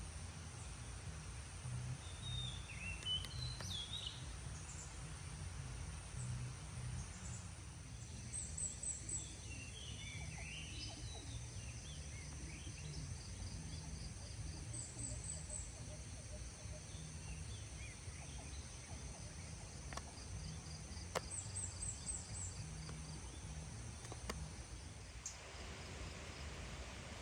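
Forest ambience: insects buzzing steadily in a high pitch with short rapid trills now and then, a few bird chirps, and a low steady rumble underneath. A few sharp clicks near the end.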